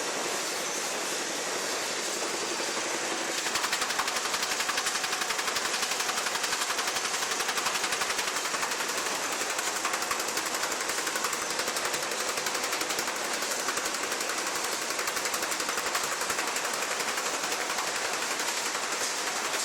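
Machinery running with a rapid, even clatter that steps up and gets a little louder about three and a half seconds in.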